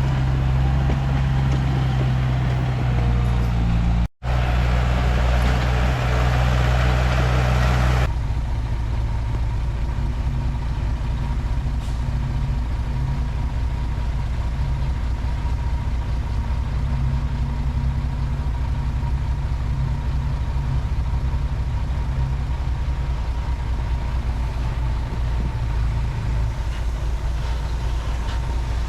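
Komatsu D31P bulldozer's diesel engine running steadily under work. About four seconds in the sound cuts out for a moment, and at about eight seconds the higher clatter and noise drop away, leaving the low engine sound with a faint steady whine.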